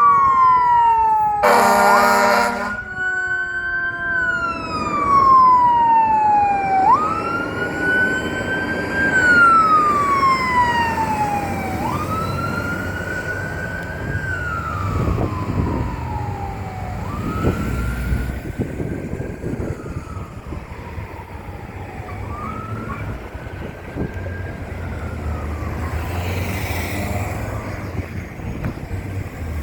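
Fire truck's Federal Q mechanical siren being peaked: each time it is run up quickly to a high wail and then left to coast slowly down in pitch, about every five seconds, growing fainter toward the end. A blast of the truck's air horn sounds for about a second, near the start.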